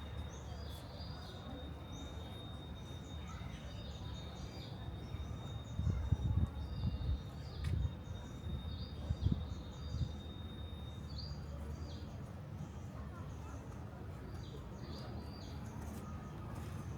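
Birds calling in short repeated notes every second or two over a steady outdoor hum, with a thin high steady whine that stops about two-thirds of the way through and a few low thumps in the middle.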